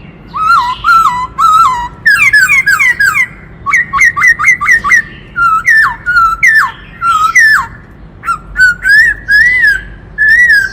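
Black-throated laughingthrush singing: a loud run of varied whistled phrases, some notes repeated quickly in series, others slurring downward or rising and falling, with short pauses between phrases.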